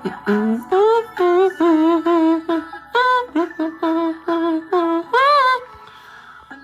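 Pop song playing: a singing voice holds a run of short, steady notes, one after another, breaking off about five and a half seconds in.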